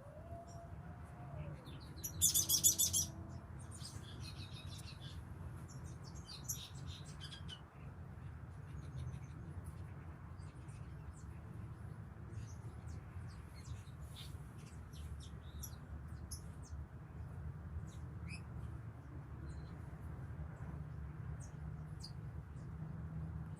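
Small birds chirping: a loud burst of rapid high chirps about two seconds in, then scattered short chirps, over a steady low hum.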